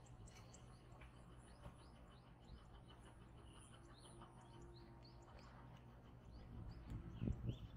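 Faint bird chirps, short notes repeating every half second or so, over a steady low hum, with a brief low rumble near the end.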